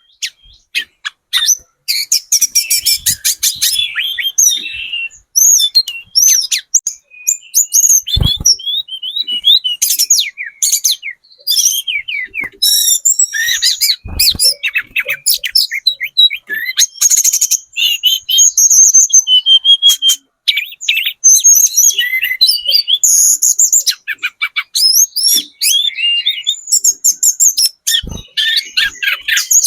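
Hill blue flycatcher, a speckled young bird, singing a rapid, varied song of high chirps, trills and clicks with hardly a pause. A few brief low thumps sound through it.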